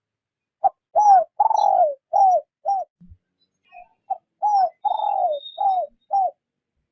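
Spotted dove cooing in two phrases of about five coos each, each coo dropping in pitch at its end, the second phrase starting about four seconds in. It is the soft 'rút bổi' coo of a decoy dove.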